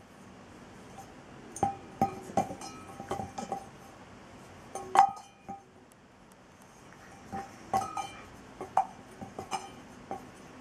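Tableware clinking: sharp taps, each with a short ring, come in two flurries, with one loud strike about five seconds in.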